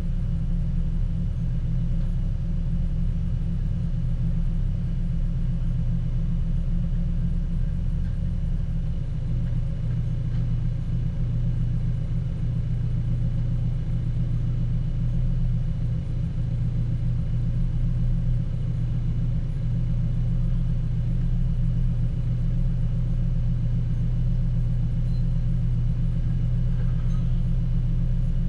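Car engine idling steadily, a low even rumble heard from inside the cabin of the stationary car.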